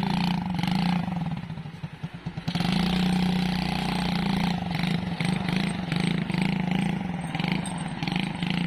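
Small children's quad bike engine running steadily, sagging almost to a stall for about a second and a half and picking back up, then running with an uneven, pulsing note.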